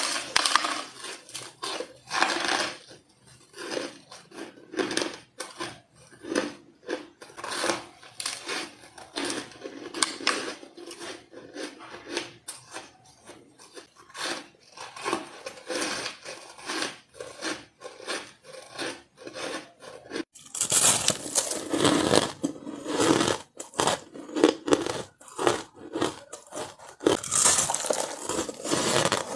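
Close-miked biting and crunching of white ice, a steady run of irregular crunches and chews. About two-thirds of the way through the bites get louder and sharper.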